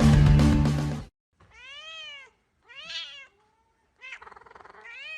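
Background music cuts off about a second in, then a cat meows three times, the last meow longer and rising at the end.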